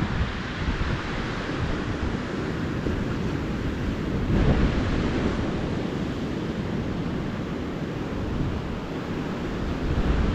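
Ocean surf washing onto a beach, with wind buffeting the microphone; a wave swells about four seconds in and another near the end.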